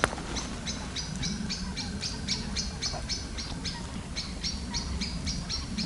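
A bird calling a short, high chirp over and over at an even pace, about three to four chirps a second.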